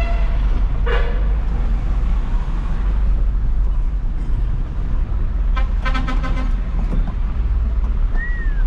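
Isuzu FRR90 truck's diesel engine running, a steady low rumble under way, with short vehicle horn toots about a second in and again twice around six seconds in.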